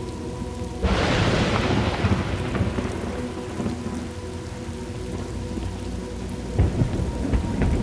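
Thunderstorm ambience: steady rain with a sudden crack of thunder about a second in that rumbles away over the next few seconds, and another low rumble of thunder near the end.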